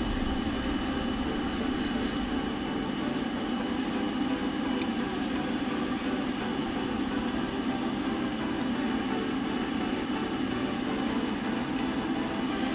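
Spray booth extraction fan running with a steady drone, with the hiss of a gravity-feed airbrush spraying paint onto a plastic model car body; the hiss thins briefly a couple of times as the trigger is eased off.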